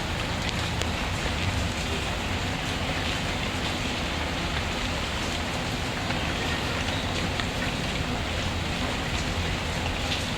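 Steady rain falling, with the soft pops and crackles of a wood fire mixed in.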